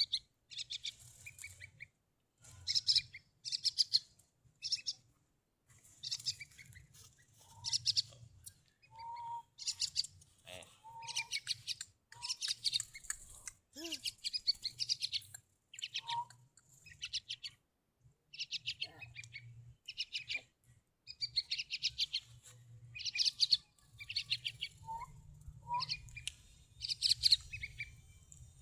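A tame young bird giving bursts of rapid, buzzy chirps again and again, typical of begging for food while being hand-fed.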